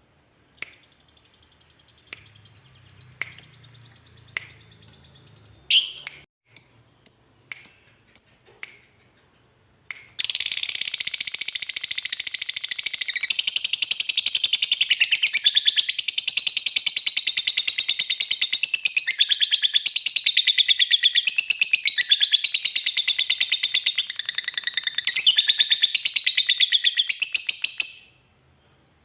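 A lovebird calling: a few separate sharp chirps over the first ten seconds, then a long unbroken rapid chattering trill, the 'ngekek', that runs for about eighteen seconds and stops shortly before the end.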